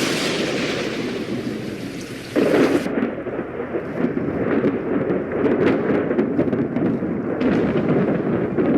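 Thunder rumbling continuously with rain falling, with a sudden louder burst of thunder about two and a half seconds in.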